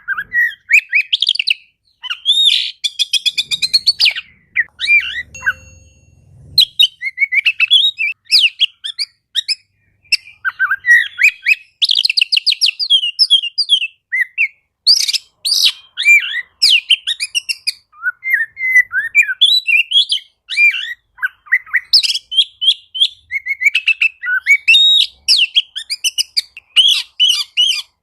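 Oriental magpie-robin (kacer) singing continuously: a fast, varied run of loud whistles, chirps and rapid trills with hardly a pause.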